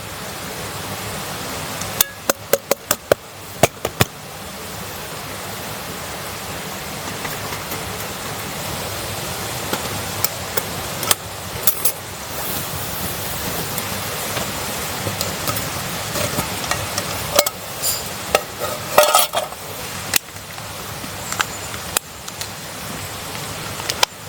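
Food sizzling in a pan over a campfire, with a quick run of sharp metal clinks and taps about two seconds in and more scattered taps later, as of a utensil working in the pan.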